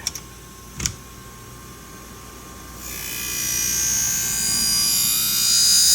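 Scissor blade ground against a 240-grit diamond wheel on a Wolff Twice As Sharp sharpener: a high grinding whine that builds up from about three seconds in and is loudest near the end. A single click about a second in.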